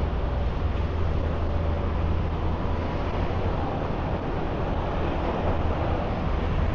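Steady road traffic on a busy city street: a continuous low engine rumble under an even wash of traffic noise.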